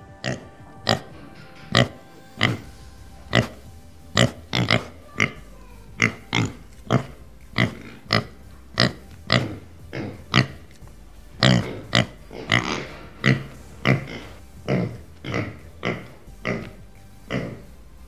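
Pigs grunting in a long series of short grunts, about two a second, that stop shortly before the end.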